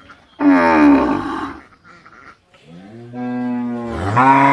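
A cow mooing twice. First a short call about half a second in that falls in pitch, then a long low moo starting a little before halfway that steps up in pitch and is still going at the end.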